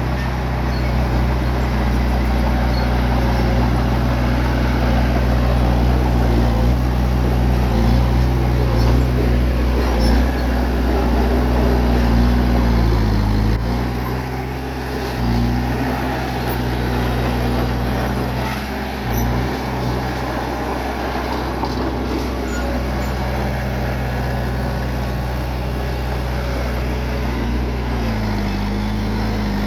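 Bulldozer's diesel engine running steadily, its pitch shifting a few times around the middle and near the end.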